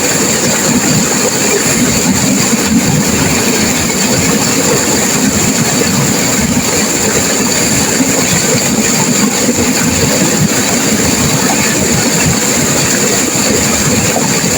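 Turbulent river water rushing and crashing in a steady, unbroken roar, with a constant high hiss over it.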